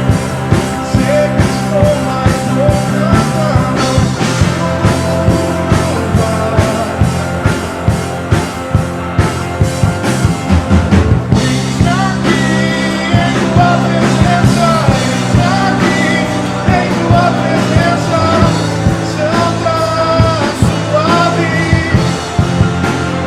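A church worship band playing live, with a steady drum beat under held chords and a wavering melody line.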